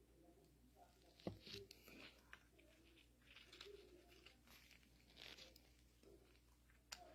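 Near silence with faint handling noises from small hydraulic valve parts: light rustling and a couple of small sharp clicks, one about a second in and one near the end.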